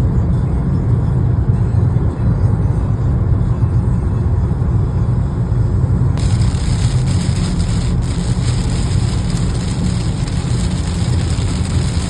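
Car driving, a steady low rumble of road and engine noise, with a brighter hiss coming in suddenly about six seconds in.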